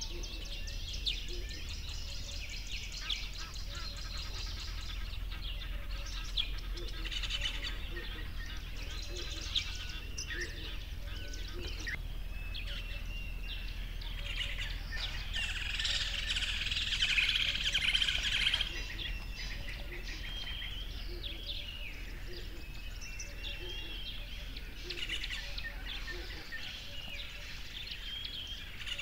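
A chorus of many birds chirping and trilling, busiest and loudest a little past the middle, over a low steady hum that stops near the end.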